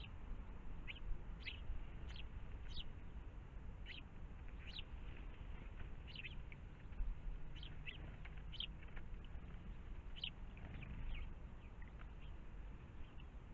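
Birds chirping: short, high calls repeated every half second to a second, thinning out near the end, over a low background rumble.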